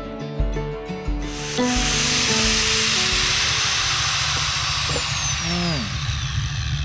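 Power tool with a ripper bit cutting into a timber post, a loud steady hiss of cutting that starts about a second in and stops near the end. Background music plays at the start and fades out.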